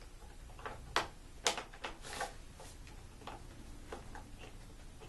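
Hard plastic parts of a Bissell ProHeat carpet shampooer clicking and knocking as inserts are fitted back into place, about half a dozen separate clicks spread irregularly, the loudest about a second in.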